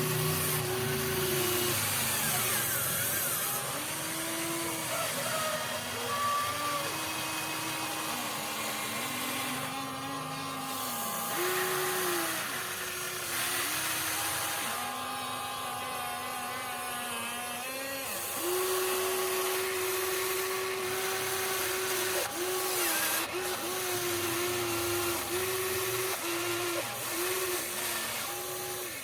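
Small electric gear motors of a Huina 1593 radio-controlled excavator whining as it works, the pitch holding steady and then stepping up and down between a few levels with short breaks.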